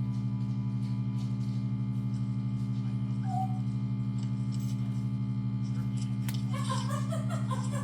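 Steady electric motor hum from the vacuum pump of a resin debubbler (degassing chamber) running.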